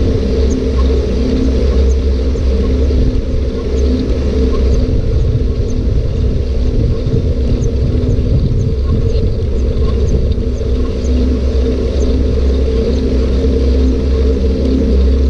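Steady low rumble of a bike in motion, with a constant hum and faint ticks repeating about every half second.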